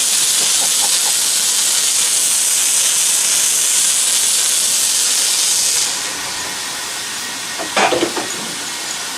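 Railway locomotive letting off a loud, steady hiss of steam that drops away sharply about six seconds in. A brief, louder sound follows near the end.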